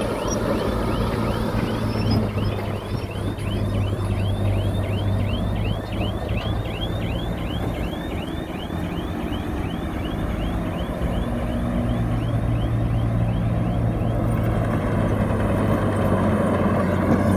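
Heavy diesel earthmoving machinery running steadily with a low engine hum. Over it, a high chirp repeats about three times a second and stops about fourteen seconds in.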